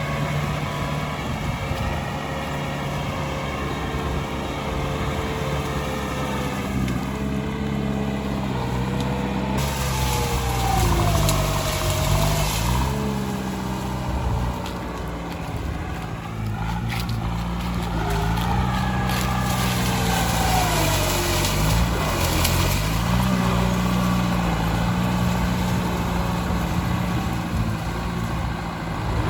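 Tractor engine working under load, its pitch rising and falling over and over as the load changes. Through the middle come stretches of rough, crackling noise over the engine.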